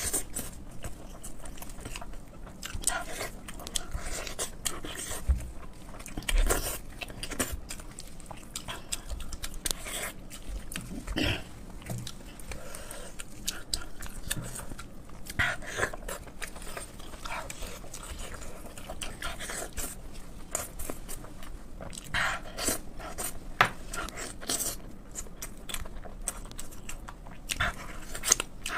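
Close-miked chewing and wet mouth smacks of a person eating braised pork with sauce, an irregular stream of short clicks and squelches.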